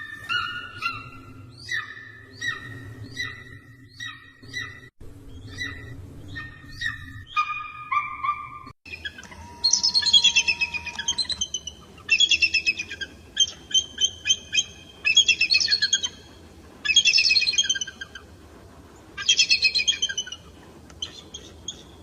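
Eagle calls: a run of short, high calls about twice a second, then, after a cut about nine seconds in, loud bursts of rapid high-pitched chattering, each about a second long, repeated every couple of seconds.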